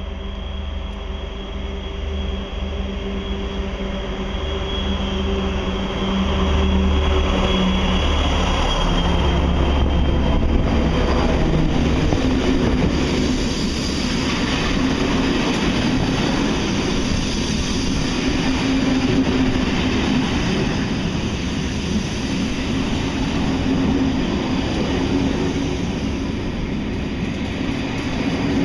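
Diesel-hauled passenger train arriving: two BB 67400 diesel locomotives working in multiple drone past, their engine note building and loudest about a third of the way in. Then the Corail coaches roll by with steady wheel-on-rail noise as the train slows into the station.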